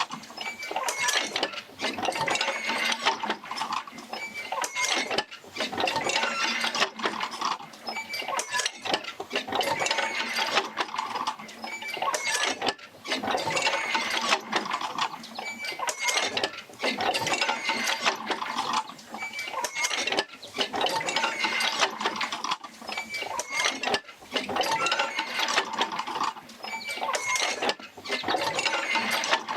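Oil-field field wheel working jerker lines off the Fitzgerald rig, with clanking, clinking and creaking of its linkages. The noise swells and drops in an even cycle about every four seconds, one cycle per stroke of the rig.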